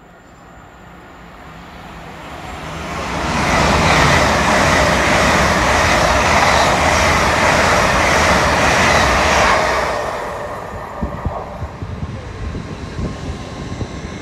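Great Western Railway passenger train passing through the station at speed. A rushing rail noise builds over about four seconds and holds steady for about six seconds as the coaches go by, then falls away into a scatter of wheel clicks and knocks.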